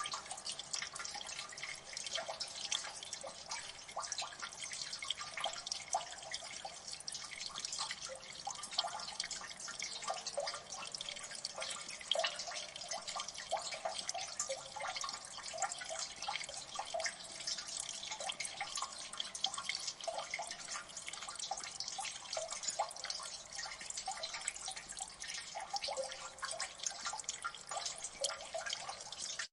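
Water dripping in a gully: many small drops falling into water, overlapping in a dense, steady stream of light plinks with no low rumble.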